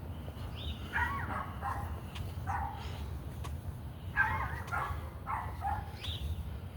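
Neighbour's dogs barking, in short groups of barks: one around a second in, another about halfway, and a longer run of barks toward the end.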